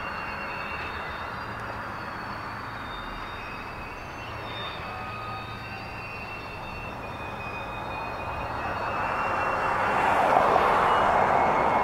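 Steel freight-car wheels rolling on rail as a string of covered hopper cars passes slowly, a steady rolling noise with faint high-pitched squeals coming and going. It grows louder about nine seconds in.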